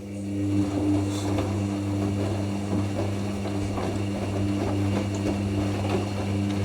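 Hoover NeXtra HNL3146 washing machine starting up a steady low hum, with a faint noisy wash over it, as it moves from the first rinse to the first intermediate spin.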